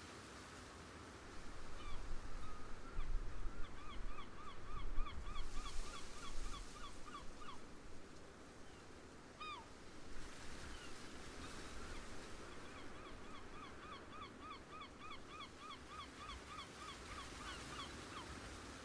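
A bird calling in rapid runs of short, evenly repeated notes, about five a second, twice for several seconds, with a single downward call between. Wind gusts on the microphone in the first half.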